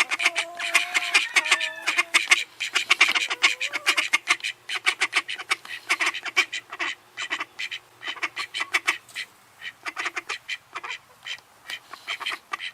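A flock of rescued birds calling all at once: a dense, rapid chatter of short calls with a few longer held notes in the first couple of seconds.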